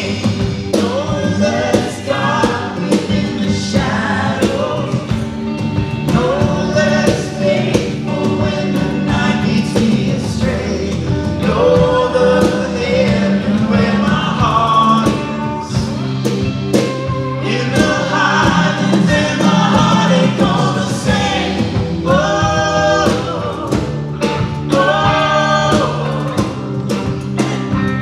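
Live worship band playing a song with singing over it, with steady bass notes and regular drum strokes.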